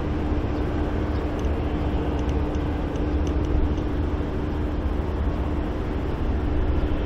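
Jet engines of a Boeing 767 airliner on final approach: a steady low rumble with a constant hum, swelling a little near the end.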